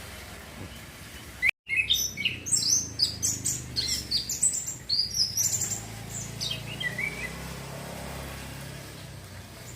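Young male orange-headed thrush singing a fast, varied run of chirps and whistles for about five seconds, starting about a second and a half in. It is a bird still learning its full continuous song. A low steady hum runs underneath.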